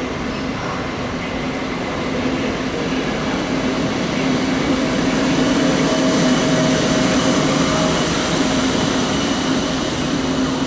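Intercity train running through the station with a steady rolling rumble and electric hum, growing louder to a peak about halfway through and then easing slightly.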